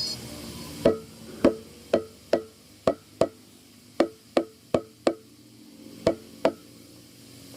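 Hammer blows on metal: about a dozen sharp, ringing strikes in quick uneven runs, with a pause of about a second near the middle, typical of hammering during truck tyre removal.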